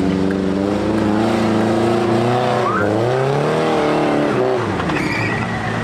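Off-road Suzuki Jimny's engine working under load, its pitch swinging up and down as the throttle is worked about halfway through, then easing off near the end.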